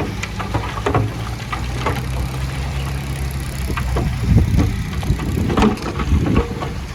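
Heavy diesel earthmoving machine running steadily, with scattered metallic clanks; from about the middle, louder irregular knocks and rumbling take over.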